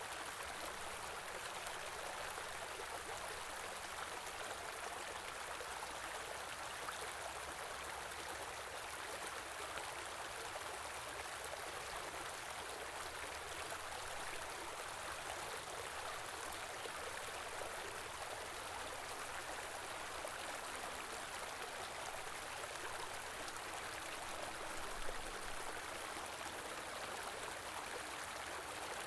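Small river flowing steadily over stones: an even rush of running water with a little bubbling, and a brief small splash or knock about 25 seconds in.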